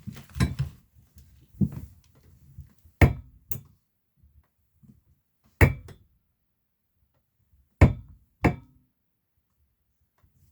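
Ergohuman Pro office chair knocking with a springy clunk and a short metallic ring as the unlocked backrest recline is worked back and forth, about seven sharp knocks at irregular intervals. The noise persists after the gas cylinder tip was greased twice, and the owner wonders whether the gas cylinder itself needs replacing.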